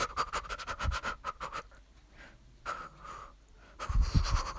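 A person panting rapidly in short breaths, voicing a character, with a low thud about four seconds in.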